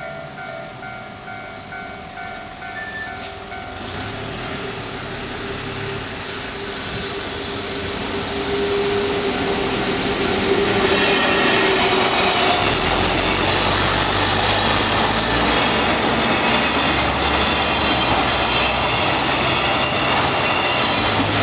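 Level-crossing warning bell ringing in a fast repeating pattern, then drowned out by a train approaching and passing the crossing: rising rail and wheel noise that turns into a loud, steady rumble about halfway through.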